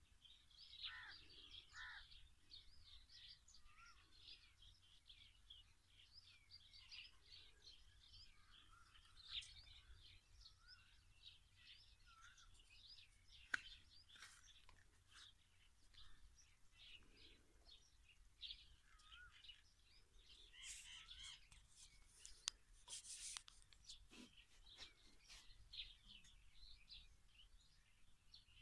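Faint chirping of small birds, many short calls overlapping, with a couple of sharp clicks.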